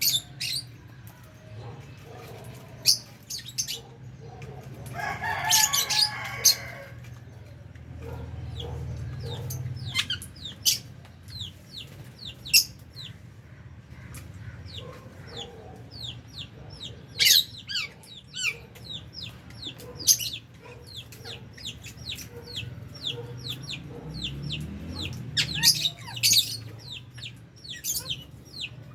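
A flock of lovebirds and budgerigars chirping: a steady stream of short, shrill high-pitched calls with a louder, harsher squawk about five seconds in.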